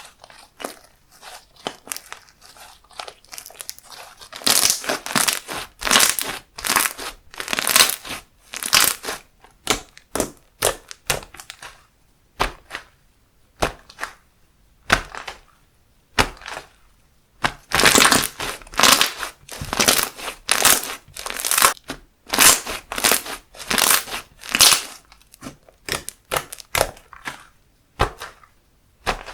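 Handmade slime being squished, pressed and stretched by hand, making repeated short crackly bursts a few times a second, with a quieter stretch about midway.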